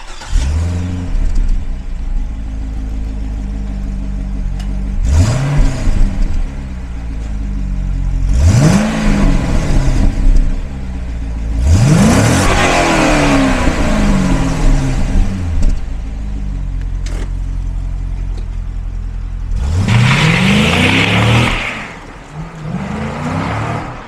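2005 Chevrolet Corvette C6's 6.0-litre LS2 V8 starting up with a quick flare, then idling and revved five times through its quad exhaust. Each rev climbs and falls back to idle; the one about halfway through is the longest.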